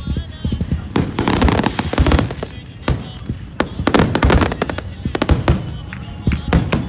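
Aerial fireworks bursting: sharp bangs, some single and some in rapid crackling clusters, with a run of quick bursts about a second in and further volleys near four and five and a half seconds.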